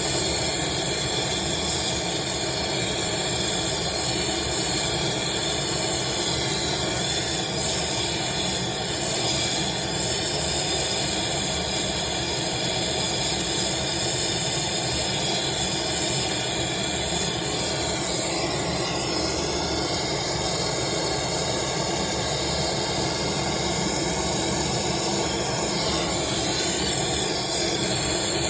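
Oxyacetylene torch flame hissing steadily while brazing a joint on an air-conditioning refrigerant line.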